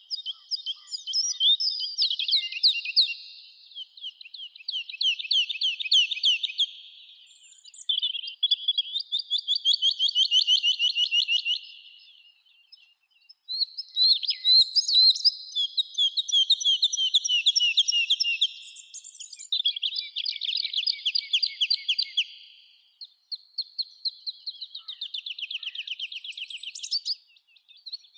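A songbird singing a run of fast trilled songs, each about three to four seconds long, with short pauses between them.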